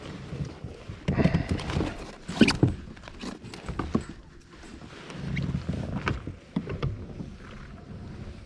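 Irregular knocks and splashy water sounds around a plastic sit-on-top fishing kayak as it is worked on the water.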